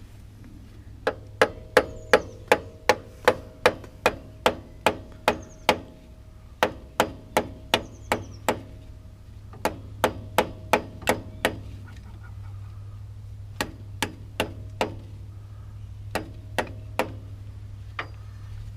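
Ball peen hammer striking a new differential axle seal directly, in quick runs of blows two or three a second with a faint metallic ring, thinning to a few spaced taps near the end: the seal went in cockeyed and is being knocked level and seated into its bore.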